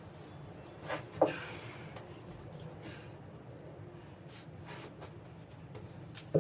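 A few sharp knocks of hard objects during tile work, the loudest about a second in and another at the very end, over a steady low hum.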